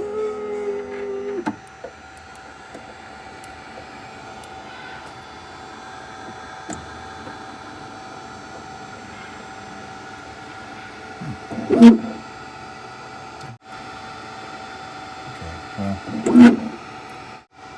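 AOSEED X-Maker Joy 3D printer running with a steady mechanical hum and a few steady tones, plus a louder whine in the first second and a half that then stops. About twelve and sixteen seconds in come two loud short bursts of noise.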